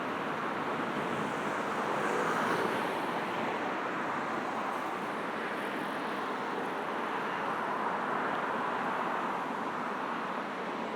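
Steady road traffic passing: a wash of tyre and engine noise that swells as vehicles go by, about two seconds in and again near eight seconds.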